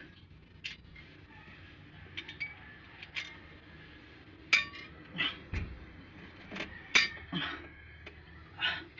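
Irregular metallic clinks and knocks of hand tools and metal engine parts being handled and set down, about a dozen in all, the loudest about four and a half and seven seconds in.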